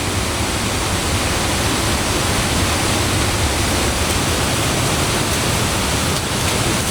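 Steady rush of water, an even noise that holds without a break.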